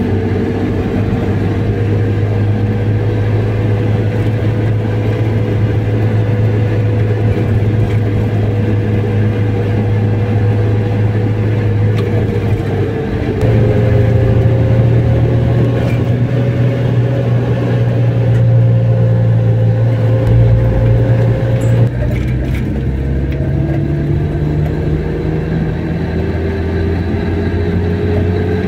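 Car engine and road noise while driving. The engine note steps up about halfway through and drops back lower a few seconds before the end.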